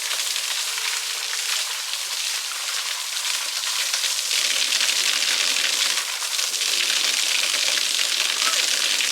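Water from a natural spring pouring and splashing steadily, a dense hiss. It grows a little fuller about four seconds in.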